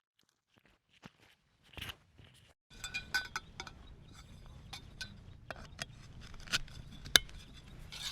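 Irregular sharp clicks and light clinks of small hard objects being handled. They are sparse at first and get busier about three seconds in, with the loudest click near the end.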